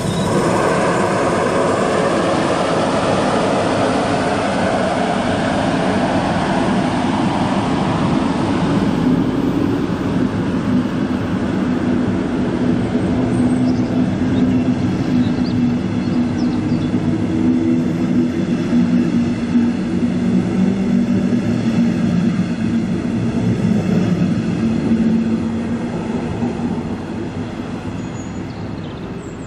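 DB class 112 electric locomotive hauling a double-deck regional train past and away, wheels rumbling on the rails with a steady hum. The sound fades over the last few seconds as the train draws off.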